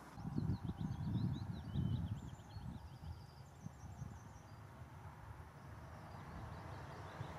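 A bird chirping, with a quick trill about three and a half seconds in, over a gusty low rumble that is loudest in the first couple of seconds and then settles into a steadier low noise.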